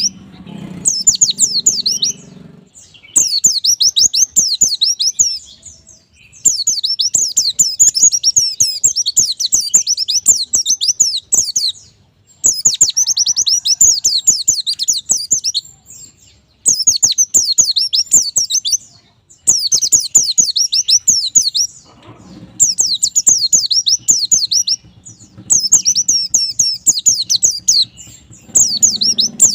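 White-eye (pleci) singing: rapid, high twittering phrases a few seconds long, repeated with short pauses between them.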